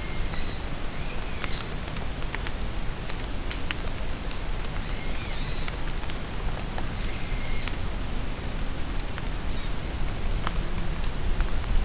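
Steady rain falling in a forest, with drops pattering and ticking, while a bird calls in short high phrases four times, spaced a few seconds apart, with faint tiny chirps from other birds.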